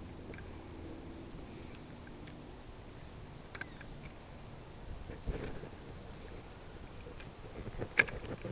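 Quiet outdoor riverside ambience: a steady faint background noise with a few light clicks, and one sharp click near the end.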